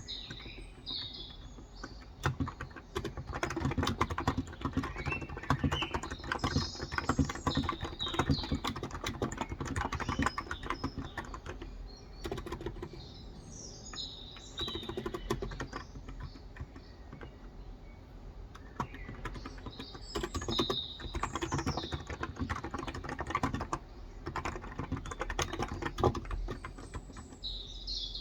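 Typing on a Cox Endeavor 35g electro-capacitive (Topre-style) tenkeyless keyboard: runs of quick keystrokes with short pauses between them. Birds chirp briefly a few times in the background.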